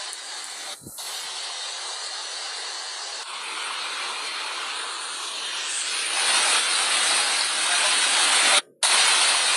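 Steady rushing noise of water, growing louder about halfway through and cutting out for a moment near the end.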